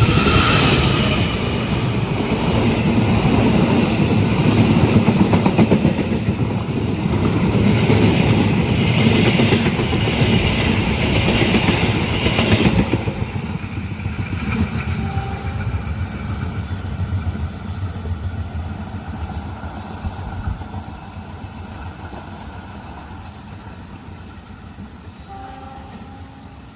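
A train passing close by with a loud rumble and wheel clatter for about thirteen seconds. The noise drops off sharply as the train clears, then fades away.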